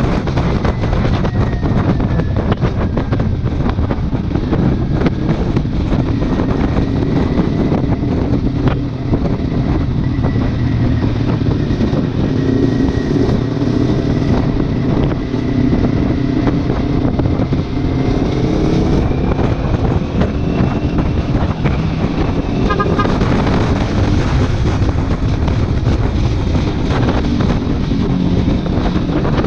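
Kawasaki Ninja 400's parallel-twin engine running through a modified aftermarket exhaust while being ridden, with wind buffeting the microphone. The engine note holds fairly steady.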